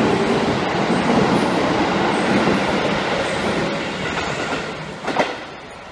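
Odakyu 1000 series electric train passing through a station at speed, its wheels running on the rails, the noise fading away from about three and a half seconds in as the train clears the platform. A short knock sounds about five seconds in.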